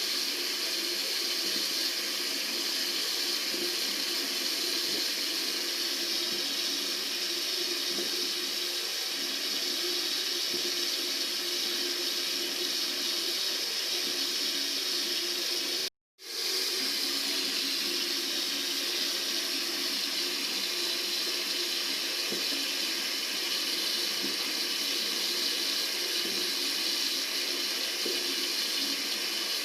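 Tap water running steadily from a faucet into a sink, a constant even rush. About sixteen seconds in, the sound cuts out for a split second and comes straight back.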